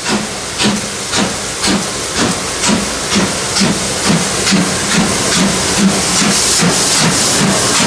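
Narrow-gauge steam locomotive working, its exhaust chuffing at about two beats a second, the beats quickening and running together into a steady hiss near the end as the train gathers speed.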